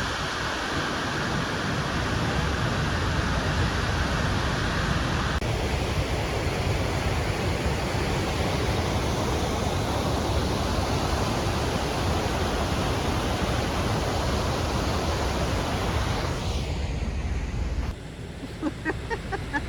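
Rushing water of a mountain creek tumbling down its bed, a steady full hiss that shifts about five seconds in and drops off near the end.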